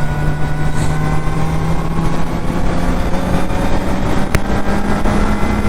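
Kawasaki Z900's inline-four engine running at highway speed, with a steady low rumble of wind and road noise around it; the engine note sinks slowly as the bike eases off after a hard run up through the gears. A single sharp tick sounds about four and a half seconds in.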